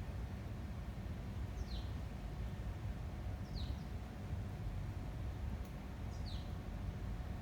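A small bird gives a short, high chirp that slides downward, three times a couple of seconds apart, over a steady low rumble of wind.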